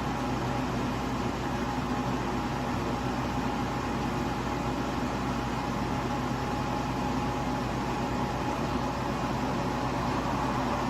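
Joy Pebble portable spot air conditioner running: a steady fan rush with an even compressor hum and a faint constant tone.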